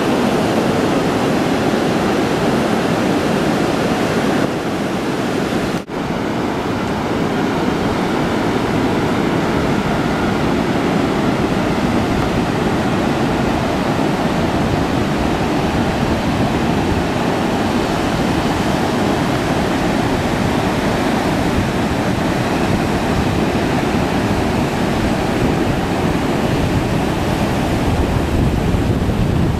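Heavy surf from a hurricane swell breaking on the beach: a loud, steady wash of breaking waves, with a brief dropout about six seconds in.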